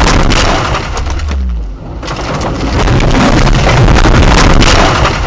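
Car crash caught on a dashcam: loud, distorted crunching and crackling noise that eases off briefly about a second and a half in.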